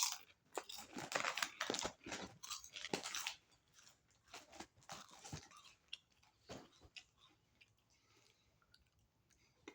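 Chips being crunched and chewed with the mouth close to the microphone. The crunching is dense for the first three seconds or so, thins out, and after about seven seconds gives way to quieter chewing.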